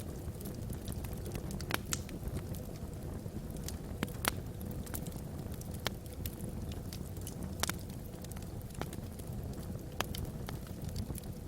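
Wood logs burning in a fireplace: a steady low rumble with scattered sharp crackles and pops, a few of them louder, at irregular intervals.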